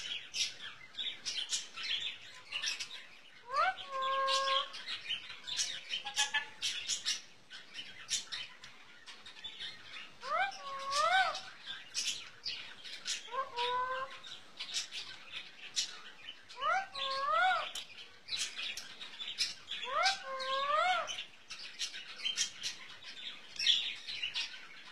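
Pet parrot making short rising, wavering calls every few seconds, among many quick high clicks and smacks like kisses.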